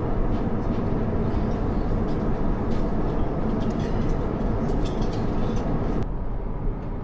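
Steady airliner cabin noise at cruise: the low, even rumble of engine and airflow heard inside an Airbus A350-900. About six seconds in it changes slightly and goes a little quieter.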